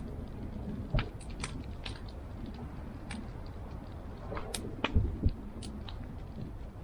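Wood campfire crackling, with scattered sharp pops and a few dull knocks, about a second in and twice around five seconds in.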